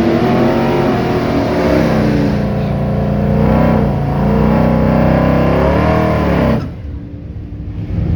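Tri-Five Chevy's engine revving hard at high rpm, its pitch repeatedly rising and falling during a burnout. The loud revving cuts off suddenly about six and a half seconds in, leaving a quieter, lower engine rumble.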